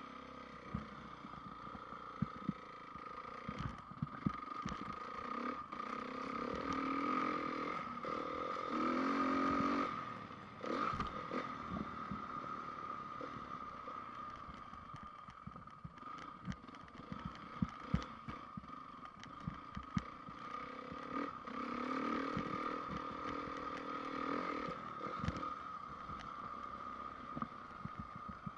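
Honda CRF450R motocross bike's 450 cc four-stroke single-cylinder engine running on track, rising in pitch and getting louder under acceleration twice, with frequent sharp knocks and clatter from the bike over the rough ground.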